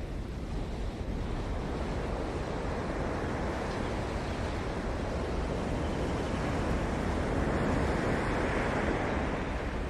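Ocean surf: waves breaking and washing up the shore in a steady rush that swells to its loudest about eight seconds in.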